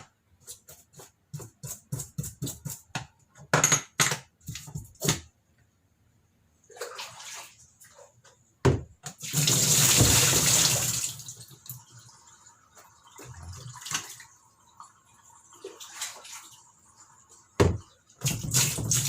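Water running and splashing over washing-machine parts that are being rinsed of dirt. A quick series of knocks and clatters comes first; then a burst of running water about halfway through is the loudest part, followed by quieter splashing.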